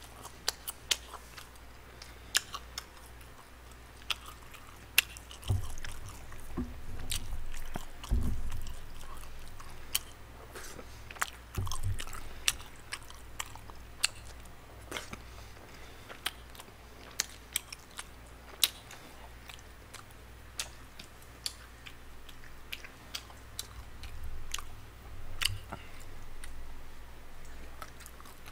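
Close-miked chewing of tteokbokki rice cakes: wet mouth smacks and sharp clicks repeating irregularly, with a few heavier, fuller stretches of chewing about six to nine seconds in and again near twelve seconds.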